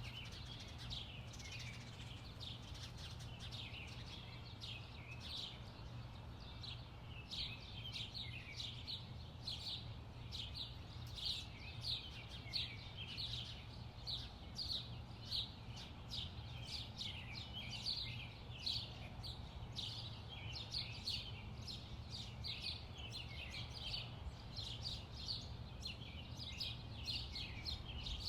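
Backyard songbirds chirping continuously, short chirps about three a second, over a low steady hum.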